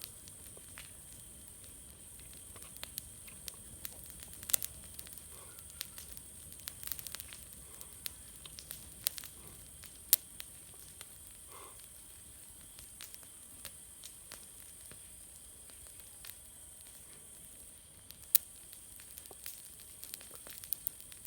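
Bonfire of dry grass, leaves and branches burning, with a steady hiss and irregular sharp crackles and pops as the dry material catches.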